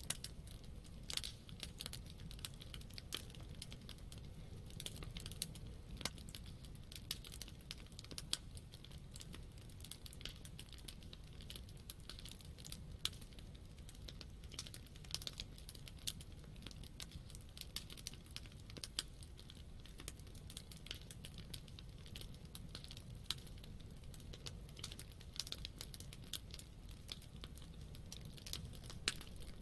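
Wood campfire crackling, with many irregular sharp pops and snaps over a low steady rumble of the burning fire.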